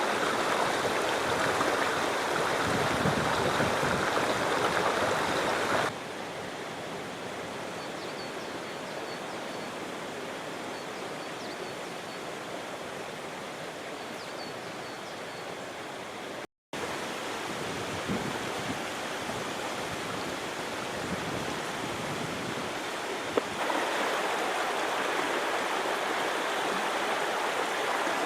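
Steady rushing of moving water by the waterside, stepping quieter about six seconds in and louder again near the end where the shots change, with a brief dropout just past the middle.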